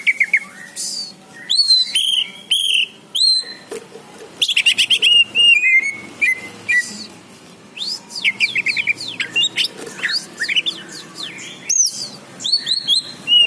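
A caged songbird singing a fast, varied song of rapid chirp series, whistled sweeps and short trills, with brief pauses between phrases.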